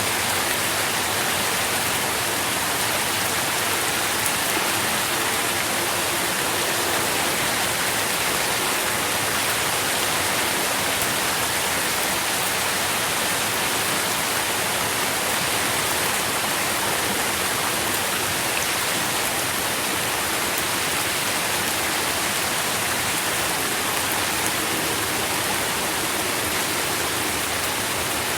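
Steady rain pattering in a dense, even hiss, with no single drops or gusts standing out.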